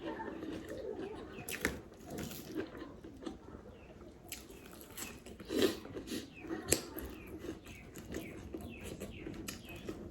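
Close-miked eating: a person chewing food, with many short wet mouth clicks and smacks, a couple louder ones a little past the middle.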